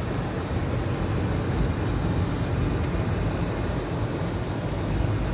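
Steady rushing noise inside a car, with the defroster fan blowing and the engine running.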